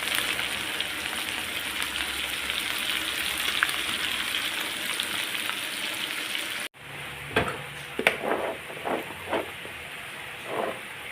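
Meat sizzling and crackling as it cooks in a steady hiss. After an abrupt cut it gives way to a quieter stretch with several separate knocks and taps.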